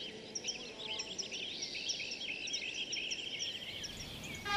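Wild birds chirping and twittering, many short curving calls overlapping in a steady chorus over a faint outdoor hiss.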